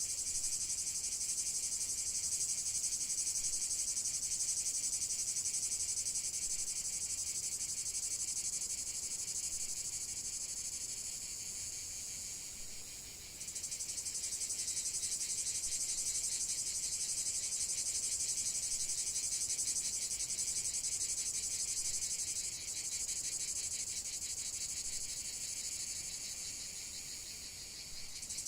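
Dense chorus of crickets chirring steadily at a high pitch. It fades a little and then jumps back up abruptly about halfway through, dips briefly again later, and softens near the end.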